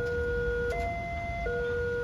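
Railway level-crossing warning alarm sounding its electronic two-tone signal, a higher and a lower tone taking turns about every three-quarters of a second, warning that a train is approaching as the barrier lowers. A low rumble lies underneath.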